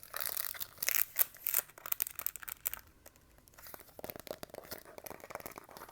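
Fast, close-miked crackling and clicking made by hand, with crinkly, tearing-like textures. It is loudest in the first two seconds and turns quieter and denser from about four seconds in.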